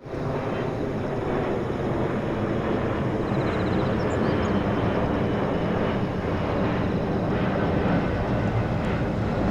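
Boeing 767 jet engines: a steady, loud, deep rumble that grows slightly louder as the airliner passes overhead.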